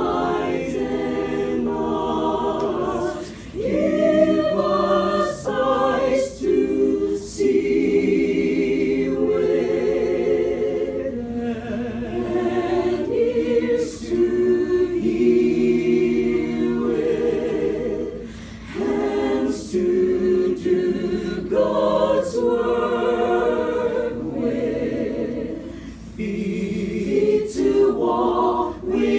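A choir singing a cappella, several voices in harmony holding sustained notes, in phrases with brief breaks between them.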